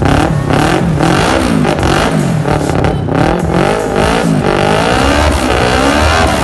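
Yamaha YZF-R25 parallel-twin engine through a MIVV Suono stainless full-system exhaust, revved up and down repeatedly, its pitch rising and falling several times in a row.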